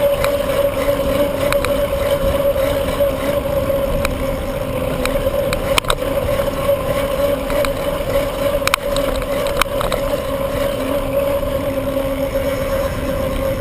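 Wind rumbling on the microphone of a camera riding along on a moving bicycle, under a steady hum and a few sharp clicks.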